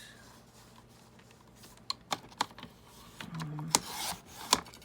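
Scattered sharp clicks and taps from a blade cutting the sides of a paper envelope and the paper being handled, starting about two seconds in.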